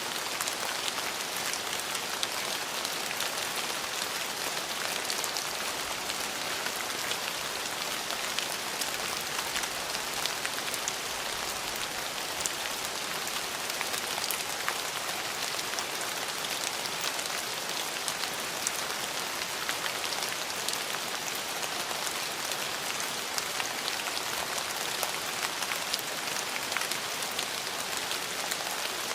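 Steady rain falling on hard surfaces, an even hiss dotted with many fine drop ticks.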